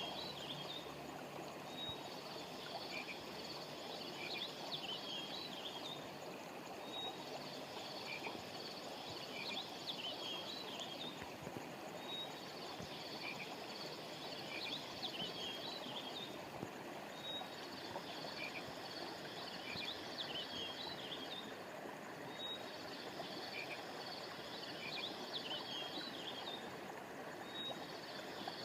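Steady rush of a flowing stream, with high chirps and trills over it in a pattern that repeats about every five seconds.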